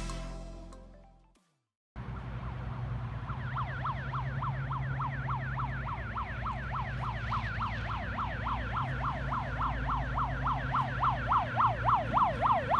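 An emergency-vehicle siren in a fast yelp, rising and falling about three times a second, over a steady vehicle engine rumble. It grows louder toward the end, as if approaching. A music track fades out in the first second and a half before the siren comes in.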